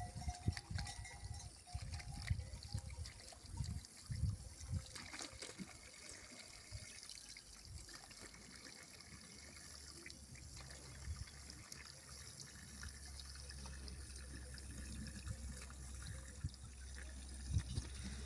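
Water trickling steadily, with a few dull low thumps in the first several seconds.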